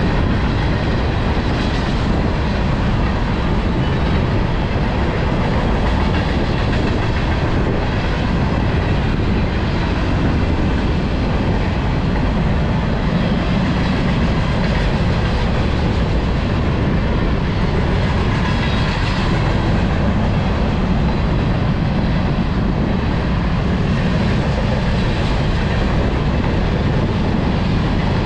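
Freight train rolling past, its steel wheels running on the rails in a loud, steady noise.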